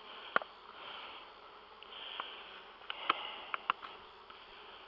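Honey bees buzzing around an open hive, rising and falling, with a few sharp light clicks, most of them bunched together about three seconds in.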